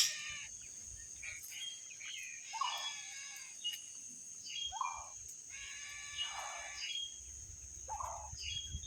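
Bird calls, short and harsh, repeated roughly every second or so over a steady high-pitched background buzz.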